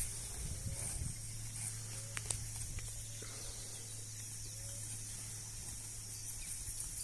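Pasture ambience: a steady high hiss of insects chirring and a steady low hum, with a brief soft rustle about a second in.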